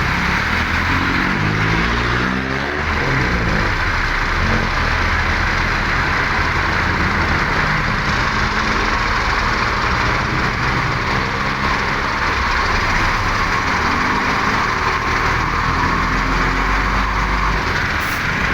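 Heavy road traffic with truck and car engines running and passing, their pitch rising and falling, over a steady rush of road noise.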